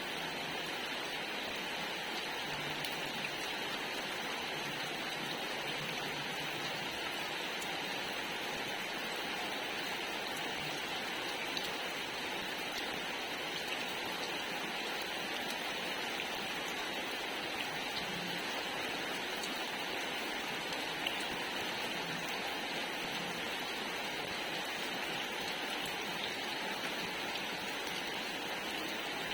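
Steady rain falling, an even hiss of drops on surfaces with now and then a single louder drop.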